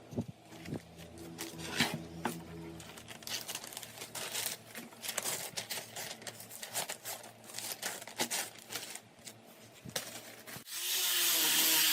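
Irregular scraping, rubbing and clicking of hand work on wood. Near the end a power tool starts abruptly and runs with a steady, loud whirring noise.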